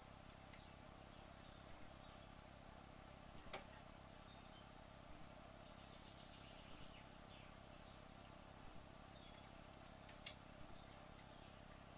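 Near silence: steady faint hiss broken by small clicks every one and a half to two seconds, with two sharper clicks, one a few seconds in and one near the end.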